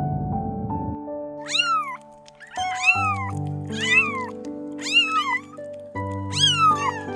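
A cat meowing five times, each meow rising then falling in pitch, over background music.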